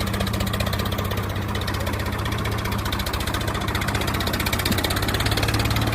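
An engine idling with a steady, rapid, even chugging.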